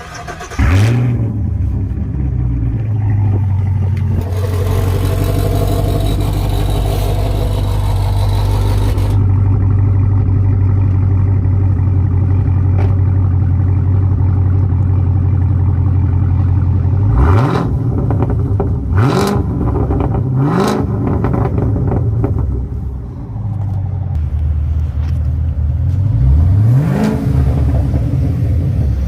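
Cadillac CTS engine starting about half a second in and settling into a fast idle. It is revved three times in quick succession partway through, the idle then eases down, and it is revved twice more near the end.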